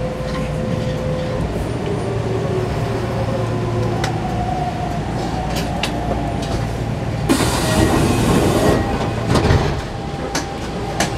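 Running noise inside a moving electric train, with wheels clicking over the rails, as an oncoming train passes close by on the next track. A loud rushing hiss lasts about a second and a half, some seven seconds in.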